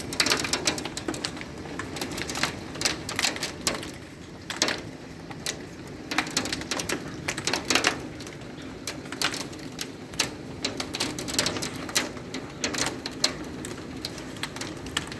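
Hailstones striking the house in an irregular, rapid clatter of sharp ticks, over a steady hiss of heavy rain.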